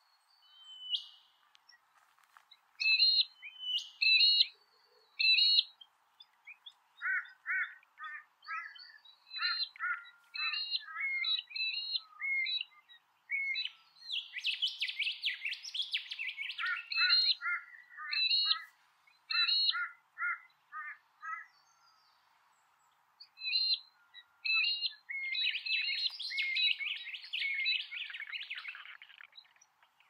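Birds calling: a run of short, repeated chirps, with a denser, raspier chatter about halfway through and again near the end.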